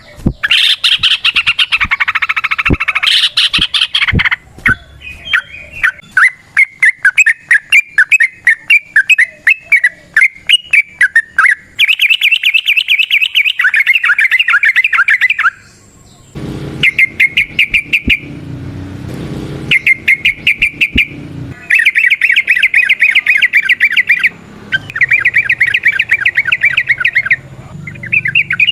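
Yellow-vented bulbul singing long runs of rapid, chattering notes, in bursts of a few seconds each with short breaks between them.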